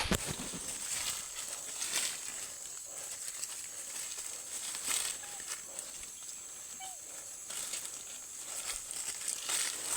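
Steady high-pitched insect drone, with scattered rustles and clicks and a couple of short chirps.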